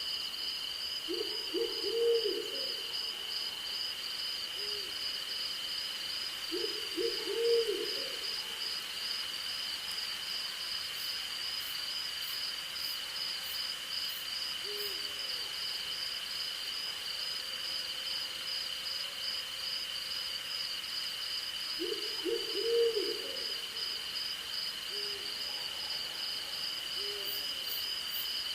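Owl hooting in short runs of low notes, three times, with a few fainter single hoots between, over a steady night chorus of crickets and insects trilling at two high pitches, one of them pulsing rapidly.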